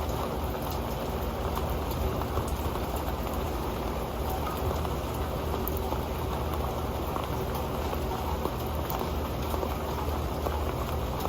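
Steady rain falling, with many drops ticking and pattering on an old metal pan.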